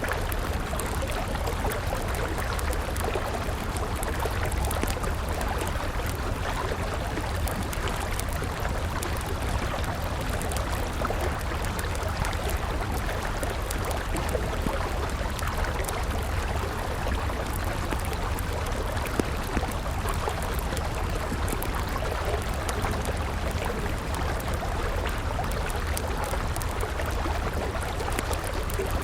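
River water flowing steadily, mixed with the crackling of a wood campfire: many small, quick pops over the constant rush.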